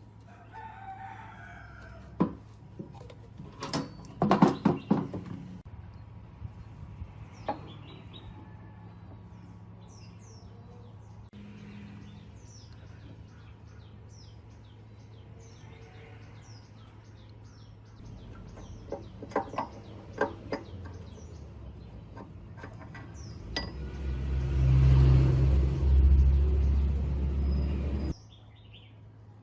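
Workshop sounds from restoring metal machinery: a series of sharp metal knocks and taps, then a power tool runs steadily for about four and a half seconds near the end. Birds chirp throughout.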